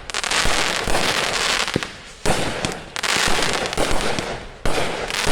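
Consumer firework cakes firing, three sudden bursts about two and a half seconds apart, each followed by a hissing, crackling tail that dies away.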